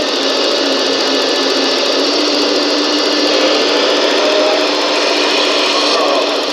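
Small electric motors and hydraulic pumps of radio-controlled construction models running steadily, a held whine with short higher tones that shift in pitch now and then.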